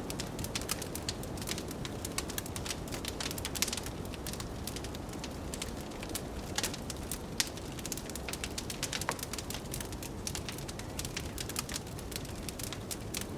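Wood fire in a fireplace crackling, with many small irregular pops and a few sharper snaps, over a steady low rush of blizzard wind.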